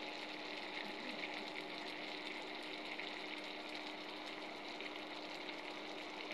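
Chicken curry sizzling in a pan on the stove: a steady hiss with fine crackles, over a faint steady hum.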